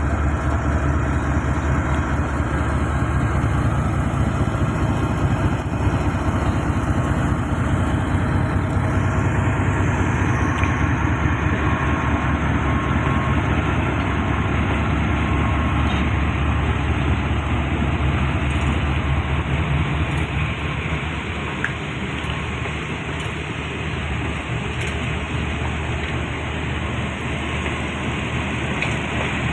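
Diesel locomotive engine of a passenger train running with a steady low throb, the train departing the station; the sound eases a little about two-thirds of the way through.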